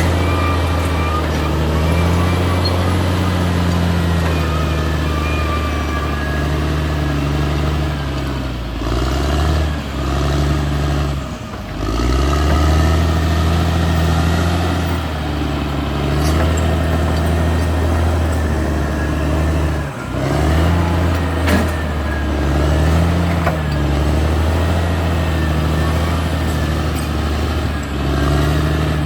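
Caterpillar D6R XL bulldozer's diesel engine running hard, its low note sagging and recovering several times as the load changes. A few sharp metallic knocks are heard along the way.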